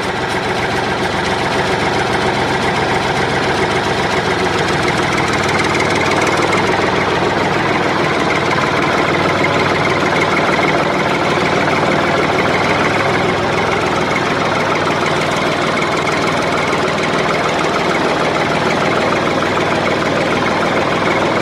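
An engine running steadily at idle, with a rapid, even pulsing.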